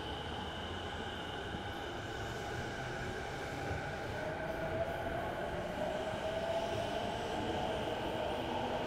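A train running past: a steady rumble with whining tones that grow stronger and rise slightly from about four seconds in.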